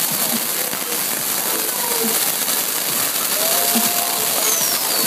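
Fireworks crackling continuously, a dense hiss of small rapid pops. A short falling whistle comes near the end.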